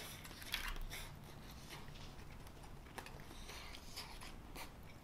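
Faint eating sounds from a serving of mac and cheese: a few light clicks of a utensil and mouth sounds, the loudest click about half a second in.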